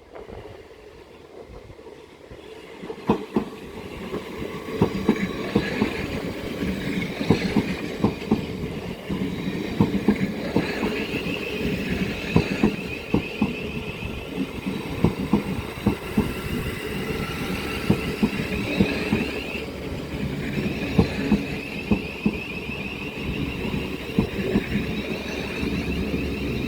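Thameslink Class 700 electric multiple unit drawing slowly into the platform, its wheels knocking and clicking over rail joints and points. A high wavering whine or squeal sets in about halfway through and comes and goes.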